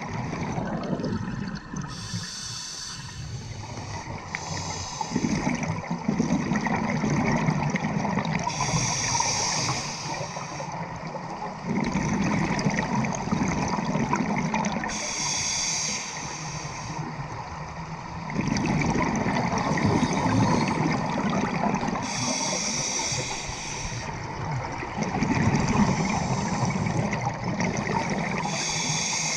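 Scuba diver breathing through a regulator underwater: a short hiss on each inhale, then a longer stretch of bubbles gurgling on the exhale, repeating about every six to seven seconds.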